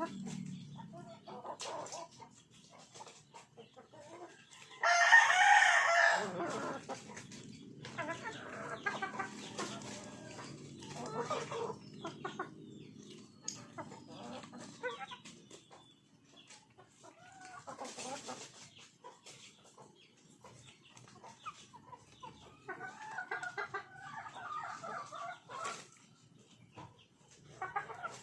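Chickens clucking, with a rooster crowing loudly once about five seconds in.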